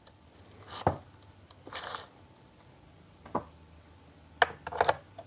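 Handling noises from a battery chainsaw's bar and chain being fitted: scattered sharp clicks and knocks with a brief scrape about two seconds in, as the new chain is seated on the bar's track.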